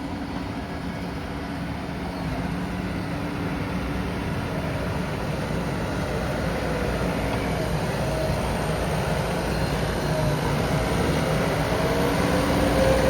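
JCB backhoe loader's diesel engine running steadily, slowly growing louder, with a faint whine that wavers in pitch in the second half.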